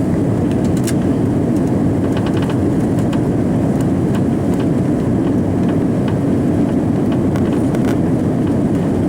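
Steady, unchanging cabin noise of an Airbus A340-300 airliner heard from a passenger seat, a deep even rumble from the engines and the aircraft, with a few faint small clicks over it.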